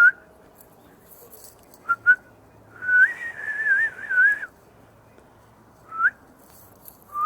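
A person whistling to call a dog: a short whistle, two quick rising chirps, then a long wavering whistle, followed by single short rising whistles near the end.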